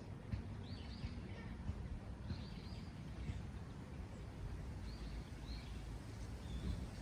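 Wind rushing steadily with a low rumble, while small birds chirp in short high calls every second or two.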